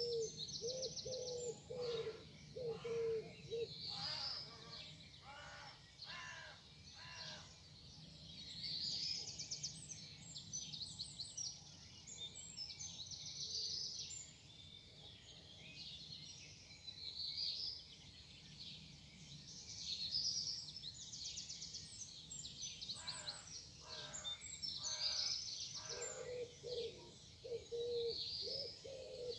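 Morning bird chorus: several birds singing high, quick trills and sweeping phrases. A low cooing is repeated in a series at the start and again near the end, with a few harsher calls between.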